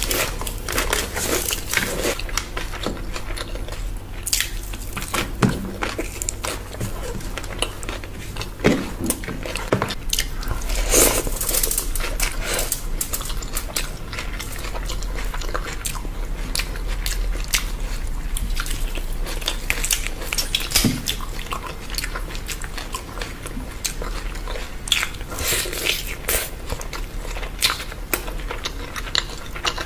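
Close-miked eating sounds: chewing and biting into roast chicken and biryani rice eaten by hand, with irregular wet mouth clicks and small crunches.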